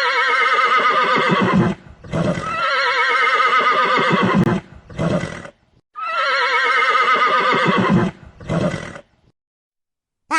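Horse whinnying three times. Each call is long with a quavering pitch and is followed by a short breathy sound.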